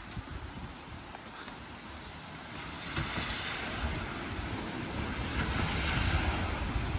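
Wind gusting over the microphone: a low, fluttering buffet under a rushing hiss that grows louder about three seconds in.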